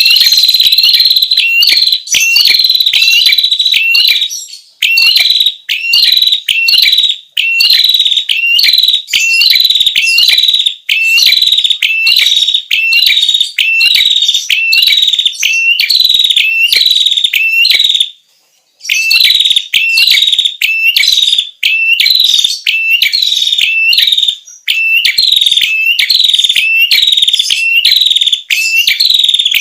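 Prenjak kepala merah lure call (pikat): a loud, shrill call repeated about twice a second in long runs, with one brief pause a little past the middle.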